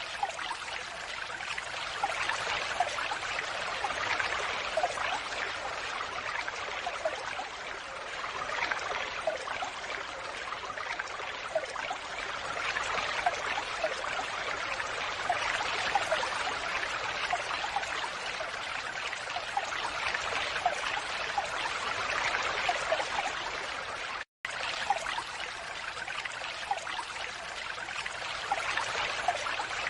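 Falling water pouring and splashing steadily, with small droplet plinks scattered through it. The sound cuts out for an instant about 24 seconds in.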